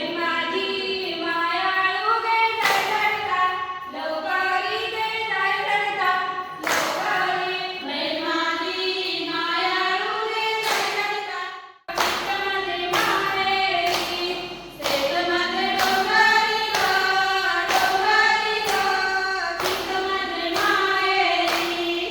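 A group of women singing a folk song in chorus. Sharp strikes keep time, sparse at first and then regular, about one and a half a second, after about twelve seconds.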